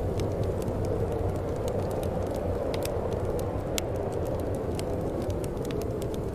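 Wood fire burning in a fireplace: a steady low rush of flame with frequent small, irregular crackles and pops.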